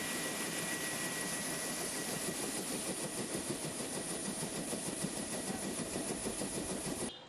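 Steady, loud aircraft engine noise heard from on board, with a constant high whine over a dense rushing drone; it cuts off abruptly near the end.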